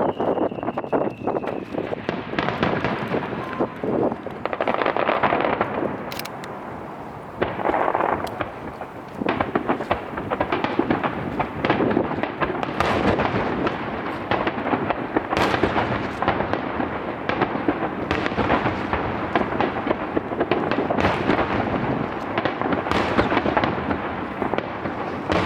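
Starmine fireworks barrage: shells bursting in rapid, overlapping succession with dense crackling.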